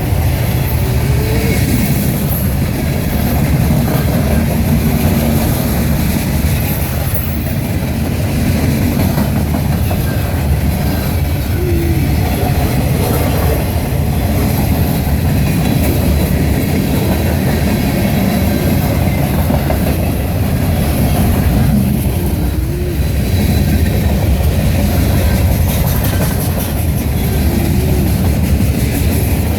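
Union Pacific freight train rolling past close by, a steady, low rumble of the cars on the rails that holds throughout.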